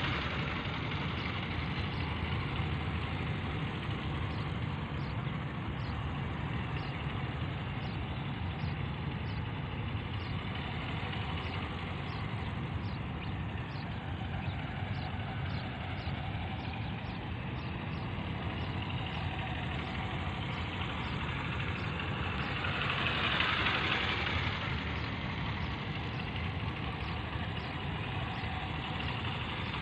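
Motorcycle engine running steadily at low speed, with a louder rush of noise about 23 seconds in.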